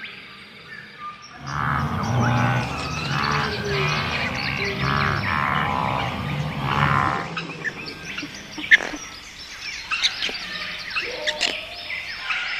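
Wild birds calling: a series of loud calls repeated about every one and a half seconds for roughly six seconds, then scattered high chirps with a few sharp clicks.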